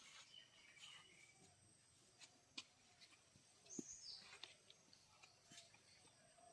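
Faint bird calls over a near-quiet background, one call sliding down in pitch about four seconds in, with a few soft scattered clicks.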